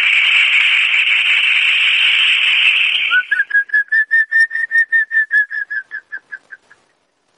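Audio feedback between a cell phone on speakerphone and a house phone held side by side: a steady, shrill whistling screech for about three seconds, then a single pulsing whistle tone, about five pulses a second, that fades away and stops near the end.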